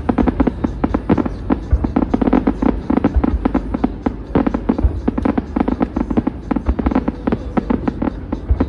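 Fireworks display going off in a rapid, dense run of bangs and crackles, many per second without a break.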